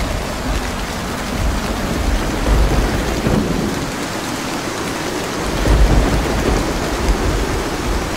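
Heavy rain falling steadily, with low rolls of thunder swelling and fading, the strongest about six seconds in.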